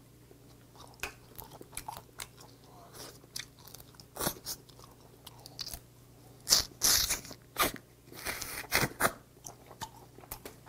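Close-miked chewing and biting of steamed snow crab meat: wet smacking with many short crunches, and a few louder crunches about two-thirds of the way in.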